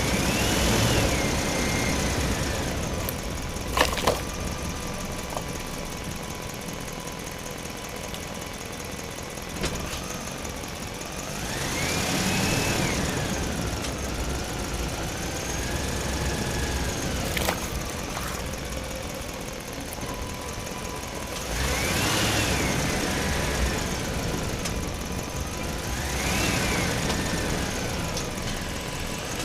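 Small diesel engine of a miniature water pump running steadily, with a whine that rises and falls in pitch several times and a few sharp clicks.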